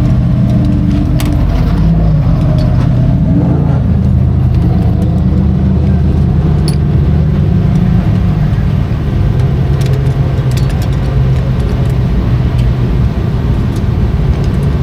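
Big-block dirt modified race car engines running loudly and steadily, with a brief shift in pitch about three to four seconds in.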